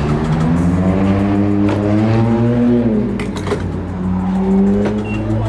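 A car engine running and revving close by: its pitch climbs for about two and a half seconds, drops, then climbs again near the end.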